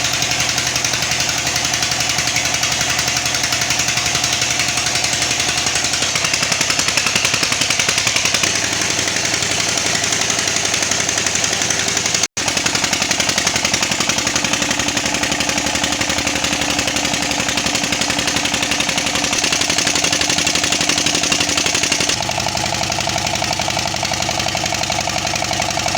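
Old single-cylinder Petter-type stationary diesel engine running steadily with a rapid knocking beat. The sound cuts out for an instant about twelve seconds in, and its tone shifts slightly near the end.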